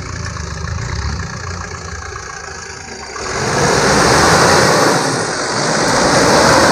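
An off-road 4x4's engine running at low revs, then from about three seconds in it is given throttle and a loud rushing noise rises and holds, as the vehicle is driven hard to climb an obstacle.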